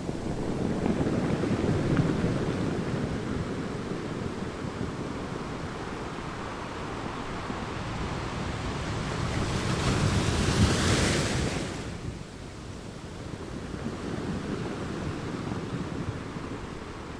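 Ocean waves washing onto a beach, with a steady surf wash. One wave builds about two seconds in, and a louder, hissier one breaks about ten seconds in before it eases off.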